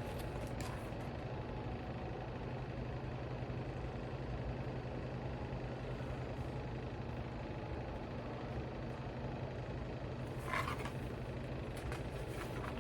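Steady low background hum of room noise, with a brief rustle about ten and a half seconds in.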